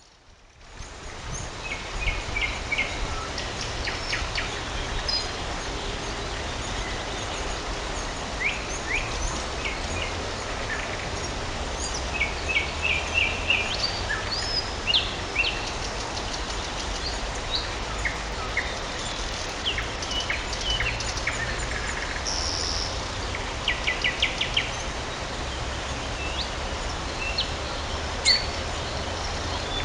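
Several songbirds singing and calling: short chirps, quick rising notes and fast runs of repeated notes, over a steady low background rumble.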